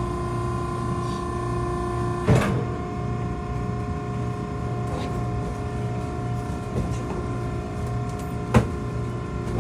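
Maren hydraulic cardboard baler running with a steady hum. Two sharp knocks sound, one about two seconds in and one near the end.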